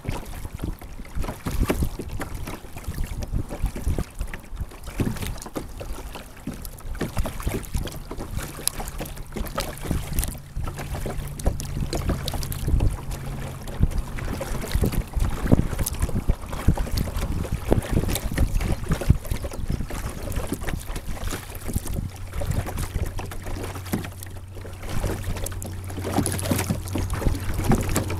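Wind buffeting the microphone of a kayak-mounted action camera, with water splashing and knocking against the kayak. A low steady hum comes in for several seconds near the middle and again near the end.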